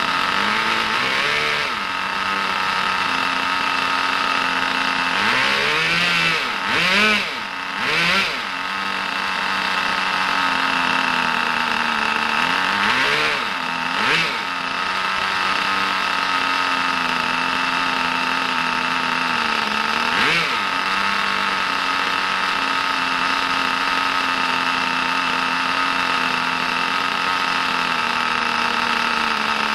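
Small nitro glow engine of a 1/10 RC car, a brand-new Kyosho GS11X on its first run, idling steadily with a high whine. Several short blips of throttle rise and fall in pitch, a few of them close together.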